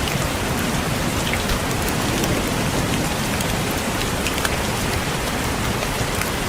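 Steady rain, with scattered single raindrops tapping sharply on a window pane.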